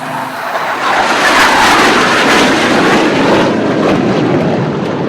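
Flypast by BAE Hawk jet trainers: a rushing jet noise that swells over about a second, holds, then slowly fades toward the end.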